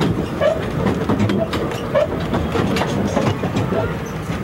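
Narrow-gauge railway coach rolling along the track, heard from aboard: a steady rumble with scattered clicks from the wheels and rails.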